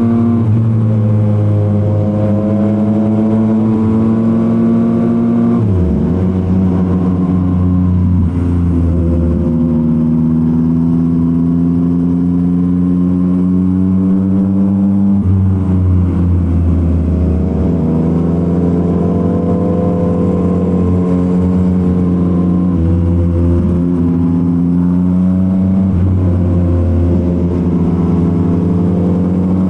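Yamaha MT-09's three-cylinder engine through a Revoc SP full aftermarket exhaust, running under way. The engine note climbs slowly and drops sharply three times, as at gear changes.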